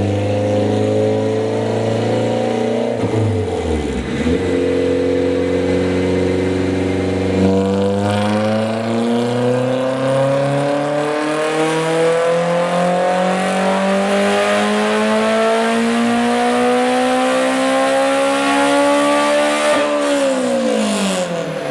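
Honda S2000 four-cylinder engine with a Tomei exhaust on a chassis dyno. It holds steady revs with a brief dip about three seconds in, then revs in one long, even climb for about twelve seconds before the throttle is lifted and the pitch falls sharply near the end.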